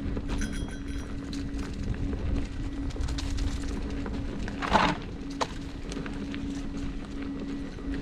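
Electric unicycle riding over a dirt trail: a steady motor hum over a low tyre-and-wind rumble, with scattered knocks from rough ground and one louder rattle about five seconds in.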